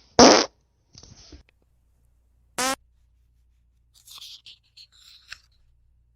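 Paper sounds from book pages being turned: a loud brief swish just after the start, a softer rustle a second in, and light crinkling later on. A short buzzing fart sounds about two and a half seconds in.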